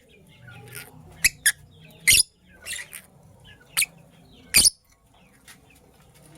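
Lovebirds giving short, shrill chirps and squeaks, about nine sharp calls at irregular intervals, the loudest about two and four and a half seconds in.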